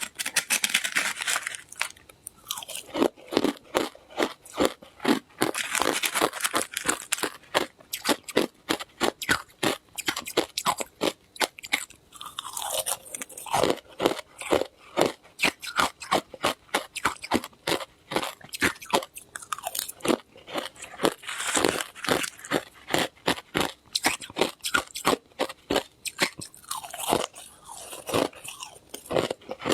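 Ice being bitten and chewed close to the microphone: a steady run of sharp crunches, several a second, without a pause.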